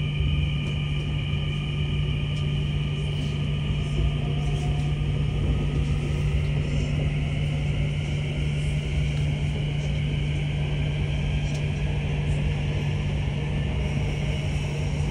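Electric passenger train pulling out of a station, heard from inside the carriage: a steady low hum and rumble with a high motor whine that climbs slightly in pitch as it gathers speed.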